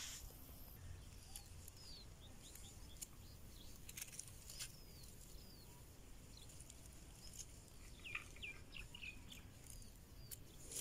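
Faint small-bird chirps: short high calls scattered throughout, with a quick cluster of several falling chirps about eight seconds in, and a few faint clicks.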